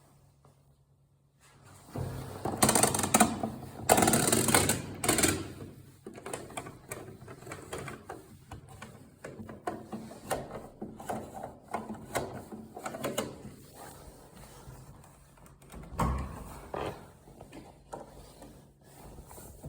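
Whirlpool AWT 5089/4 washing machine drum turning with a steady low hum and irregular clattering and knocking: the sound of a broken drum spider. The clatter is loudest from about two to six seconds in, then goes on lighter, with another loud burst near the end.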